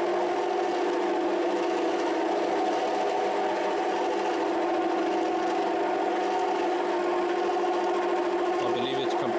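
Rotwerk 7x14 mini lathe running steadily, its motor and gear train giving a constant whine.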